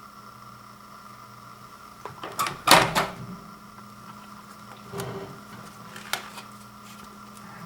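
Microwave oven running with a steady hum, with a cluster of knocks and clatters about two and a half to three seconds in and single knocks near five and six seconds.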